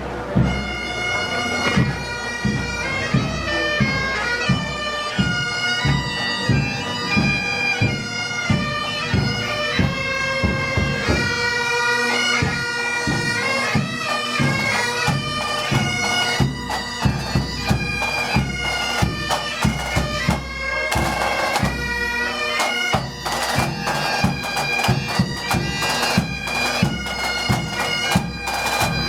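Pipe band playing a march: bagpipes sounding a melody over their steady drone, with snare and bass drums keeping the beat.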